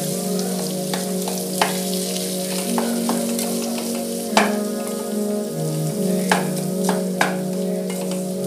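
Mashed potato frying in oil in a stainless-steel pan, sizzling steadily while a spatula stirs and mashes it. The spatula clicks against the pan a handful of times. Underneath runs a low steady tone that shifts pitch in steps every second or so.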